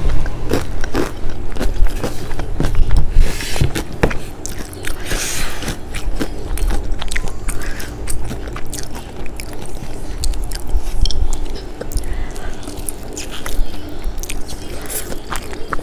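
A person chewing crispy McDonald's fried chicken, with many short sharp crunches of the fried batter and a fresh bite into the drumstick near the end.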